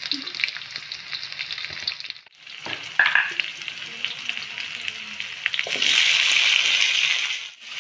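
Sliced shallots, garlic, chilies and tomato sizzling in hot oil in a steel wok, stirred with a metal spatula that now and then scrapes and ticks against the pan. The sizzle grows louder about six seconds in.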